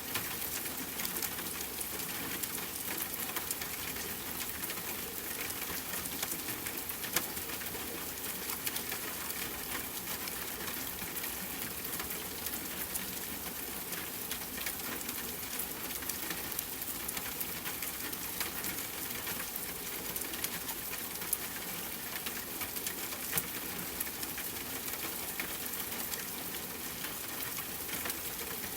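Steady rain falling, an even hiss dotted with many small sharp ticks of drops and a campfire crackling.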